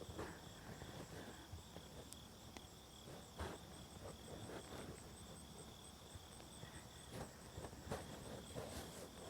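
Faint, steady insect chirping, a high, finely pulsed trill that runs on without a break. A few soft rustles are heard over it.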